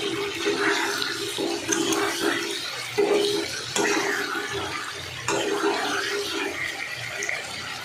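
Chicken pieces and masala sizzling as they fry in a non-stick kadhai, with a metal spatula stirring and scraping across the pan in repeated strokes about once a second.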